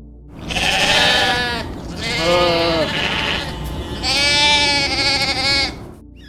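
A bleating farm animal giving three calls about a second apart, each lasting one to one and a half seconds, the last the longest.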